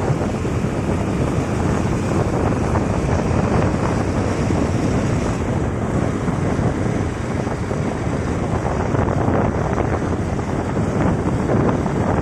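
Steady, loud wind rushing over the microphone of a moving bike, drowning out other sounds.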